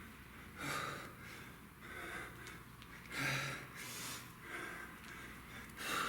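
A man breathing hard and rhythmically from exertion during kettlebell reps: a sharp, noisy breath about once a second, with a few louder, forceful ones roughly every two and a half seconds.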